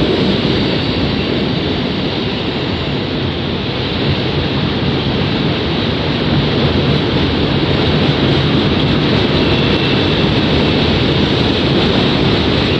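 Loaded coal hopper cars of a CSX coal train rolling steadily over the rails, a continuous rumble and rail roar, with a faint high-pitched squeal joining near the end.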